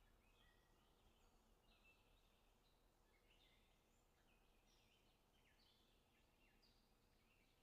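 Near silence: faint, frequent short bird chirps over a low hiss.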